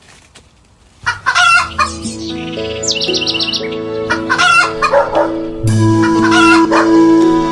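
A rooster crowing and chickens clucking over soft background music, starting after about a second of quiet.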